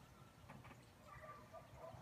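Faint bird chirps, short scattered calls with a soft click or two.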